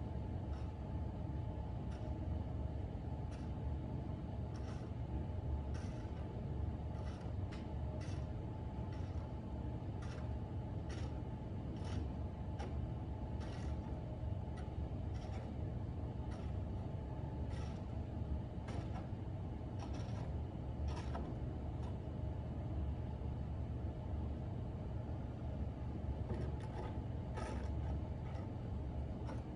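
Snow shovel scraping a driveway in short strokes about once a second, pausing for a few seconds near the end, over a steady low engine rumble from vehicles.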